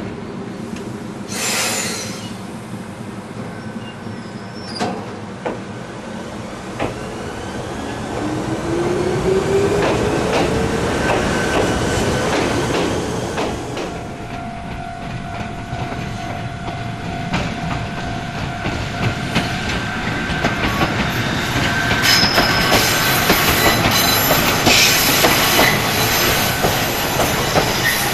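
Ichibata Electric Railway electric train pulling away, with a short hiss early on and the traction motors whining upward in pitch as it picks up speed. Later a train runs close by over the rails, its wheels clattering over the joints and squealing, louder near the end.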